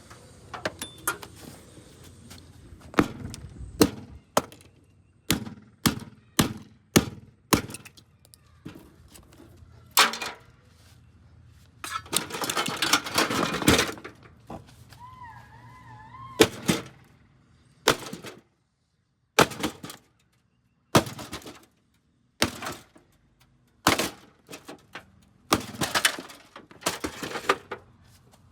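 A Hamilton Beach microwave oven being smashed apart: many separate sharp blows with cracking and breaking of plastic and sheet metal, irregularly spaced, and a longer stretch of crunching about halfway through.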